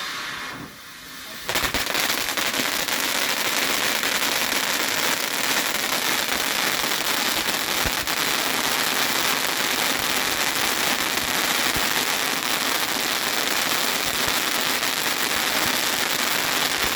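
Fireworks crackling: a dense, continuous crackle that starts suddenly about a second and a half in and keeps up steadily.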